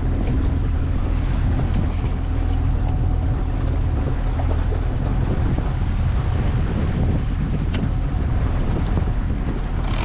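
A small fishing boat's motor running steadily at trolling speed, with wind buffeting the microphone and the rush of the sea.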